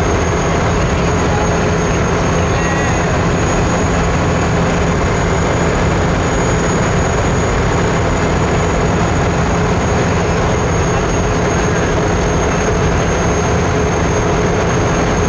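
Vehicle driving at a steady speed: an unbroken engine drone and road noise, with a thin, constant high-pitched whine above it.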